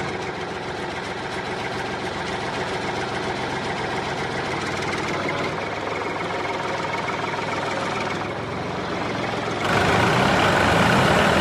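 A tractor engine sound running steadily, with an even, unbroken drone. It gets louder about ten seconds in.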